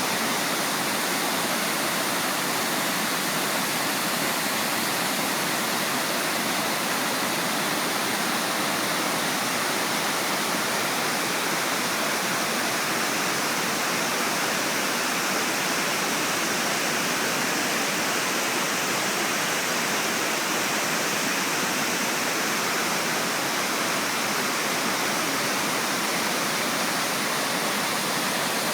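Yudaki waterfall's water rushing down the rock in a steady, even roar of falling water, with no change from start to finish.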